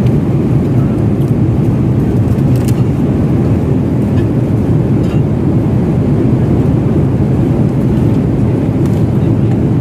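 Steady low roar of an airliner cabin in cruise, the constant rumble of jet engines and airflow, with a few faint clicks over it.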